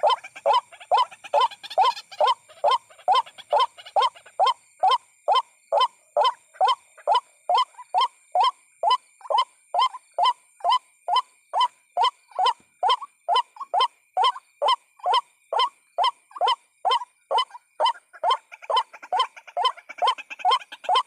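White-breasted waterhen call used as a trapping lure: a monotonous run of short, rising honking notes, about two a second, repeated without a break.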